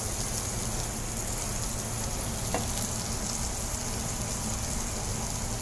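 Pieces of chicken frying in oil in a pan, a steady sizzle.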